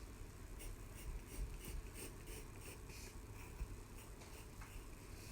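Pencil drawing on paper: faint, short, irregular strokes, over a low steady hum.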